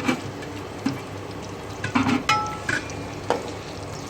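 A spoon stirring raw chicken with oil and ginger-garlic paste in a pan, knocking and scraping against the pan about half a dozen times over a faint frying sound.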